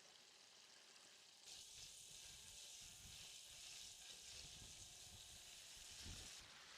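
Food frying in hot oil, a faint sizzle that grows louder about a second and a half in and drops back shortly before the end, with soft low knocks underneath.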